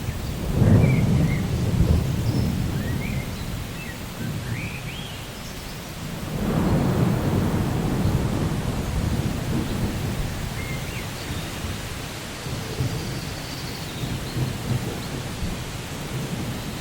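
Rainforest thunderstorm ambience: steady rain with two long rolls of thunder, one starting about half a second in and another about six seconds in. Birds chirp briefly over the rain in the first few seconds and again near the middle.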